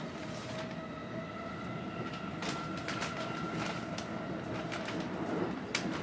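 Electric commuter train running, heard from inside the carriage: a steady rumble with a faint whine and scattered sharp clicks.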